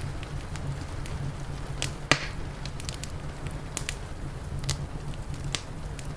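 Wood fire crackling: scattered sharp pops and snaps, one louder pop about two seconds in, over a steady low rumble.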